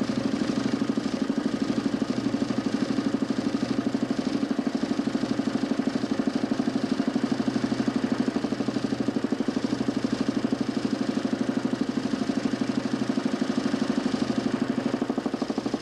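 DC motor spinning a large plywood Nipkow disc in a homemade mechanical television, running steadily with a hum and a fast, even pulsing.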